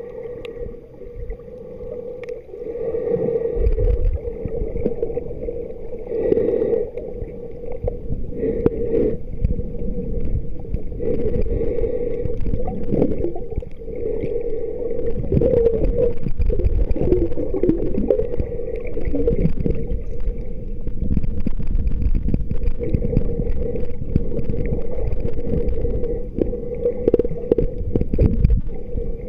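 Water gurgling and sloshing close to the microphone, in uneven surges, over a steady droning boat-engine hum.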